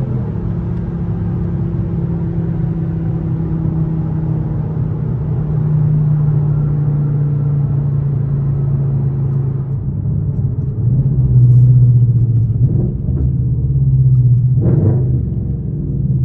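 Straight-piped Infiniti M56's 5.6-litre V8 droning steadily at low revs while driving. The drone grows louder in the second half, with a brief quick rise and fall in pitch near the end.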